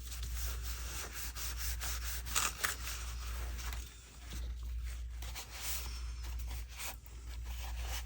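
Paper being handled and rubbed on the work surface: irregular soft rustles and scrapes over a steady low hum.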